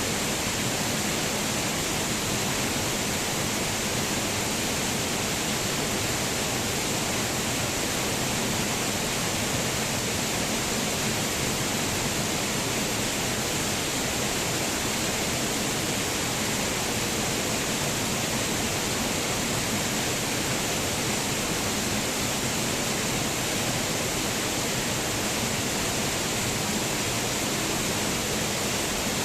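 Waterfall: a steady, unbroken rush of falling water, bright and hissy, with no separate splashes or changes.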